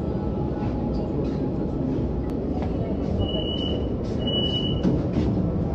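Steady rumble of a metro train and station, with two short, high electronic beeps a little past halfway.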